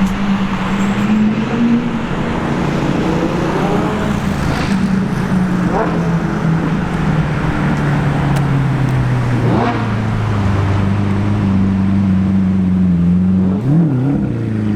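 Hyundai i30N's 2.0-litre turbocharged four-cylinder engine running at low revs, a steady drone, with brief rises and falls in revs about six, ten and fourteen seconds in.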